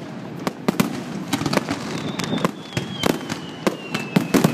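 Fireworks display at close range: sharp, irregular bangs and crackles from aerial shells and comets, several a second. A faint whistle slowly falls in pitch through the second half.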